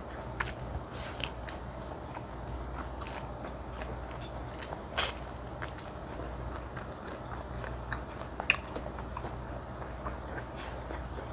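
Close-miked eating of spicy mala xiang guo: soft chewing with scattered short, wet mouth clicks, and a couple of louder bites about halfway through and again near the end.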